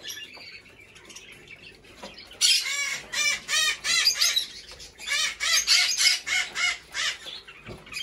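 Caged birds at a bird market calling in two quick runs of loud, repeated harsh chirps, about four to five a second, over a faint background hum.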